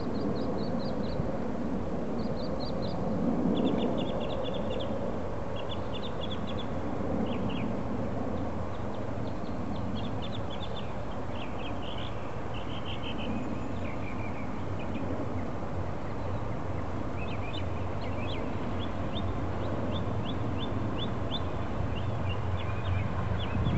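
Small birds chirping in quick runs of high notes every second or so, over a steady low rumble.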